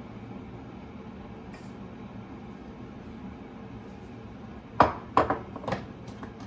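Steady low room hum, then near the end a quick run of four sharp clinks and taps of hard objects being handled, the first the loudest.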